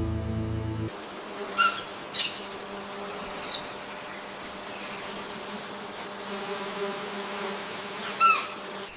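Forest ambience: bird calls over a steady buzzing hum, with a call of quick stacked notes and a sharp falling note about two seconds in, another like it near the end, and faint high chirps between. A low droning sound cuts off about a second in.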